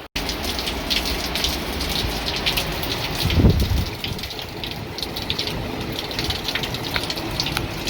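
Hurricane wind and heavy rain: a steady rush with dense rain patter, and a stronger low gust about three and a half seconds in.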